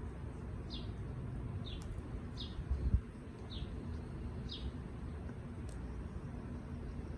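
A bird giving short, high chirps, one roughly every second, over a steady low rumble. A single dull low thump comes about three seconds in.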